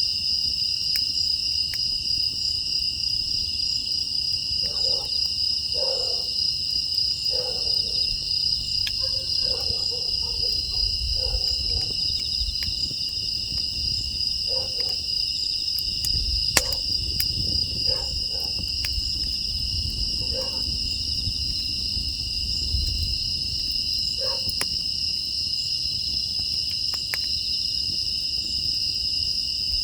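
Crickets and other grass insects chirring in a steady chorus, while a dog barks now and then, in short runs of barks from about five seconds in to around three quarters through. Sharp crackles and pops from a wood fire come through over a low rumble.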